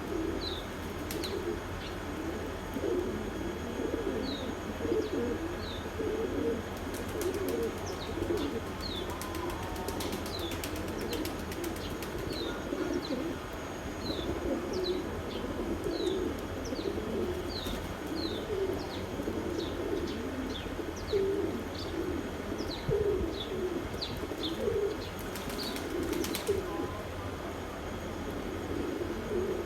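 A flock of domestic pigeons cooing continuously, with short high chirps repeating about once a second. Bursts of wing flapping come about a quarter of the way in and again near the end.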